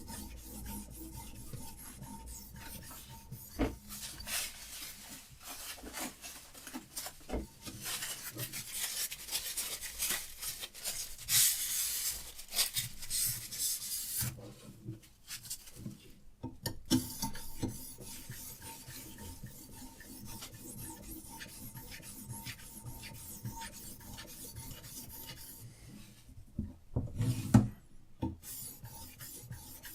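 Diamond sharpening stone on a Hapstone RS guided sharpener rasping back and forth along a survival knife's steel edge in repeated short strokes. There are a couple of brief pauses and a louder knock near the end.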